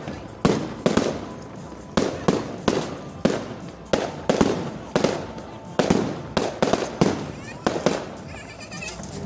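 Fireworks bursting in quick succession, about two loud bangs a second, each trailing off in an echo. The bangs stop shortly before the end and a brief wavering high-pitched sound follows.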